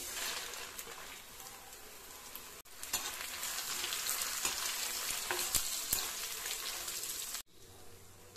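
Dried red chillies and spice seeds sizzling as they fry in hot oil in a black iron kadai, with light clicks of a metal slotted spatula stirring them. The sizzle grows louder about three seconds in and cuts off suddenly about a second before the end.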